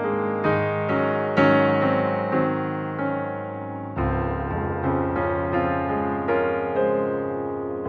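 Background music: piano notes played one after another, each ringing and dying away.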